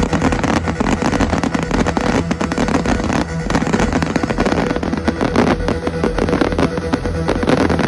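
Fireworks display going off in a dense, continuous barrage of rapid crackles and pops.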